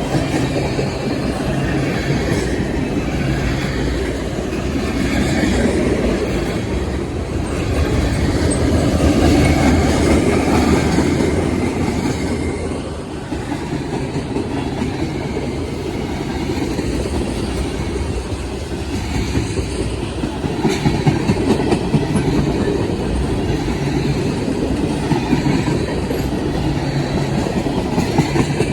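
Freight cars of a Wheeling & Lake Erie train rolling past, with a steady rumble and the clatter of wheels over the rail joints; the locomotives have already gone by.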